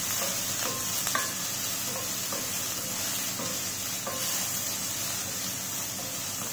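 Chopped onions, garlic and curry leaves sizzling in a little oil in a stainless steel pan while a wooden spatula stirs them. A steady frying hiss with a few light scrapes of the spatula.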